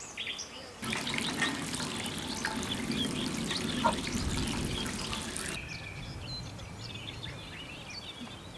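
Water running and splashing for about five seconds, then cutting off suddenly. Faint bird chirps follow.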